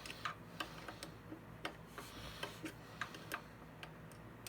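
Light metallic clicks, two or three a second at an uneven pace, from a hand wrench working the bolts that clamp the thickness planer's cutterhead blades.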